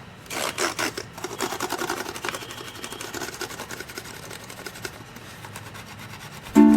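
A fast, irregular run of small sharp clicks, dense at first and thinning out over the following seconds; plucked-string music comes in just at the end.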